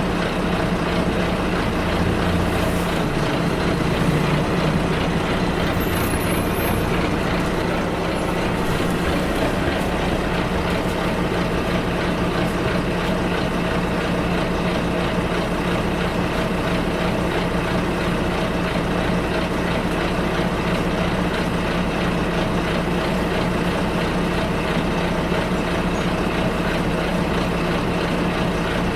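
Bus engine running steadily while the bus drives, heard from inside the cabin as a constant low hum with road noise. A brief high squeak comes about six seconds in.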